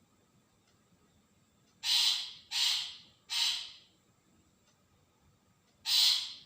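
Long-tailed shrike giving harsh, scratchy calls: three in quick succession about two seconds in, then another near the end.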